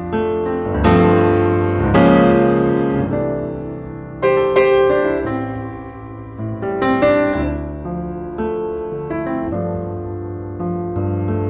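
Background piano music: a solo piano playing sustained chords and melody notes.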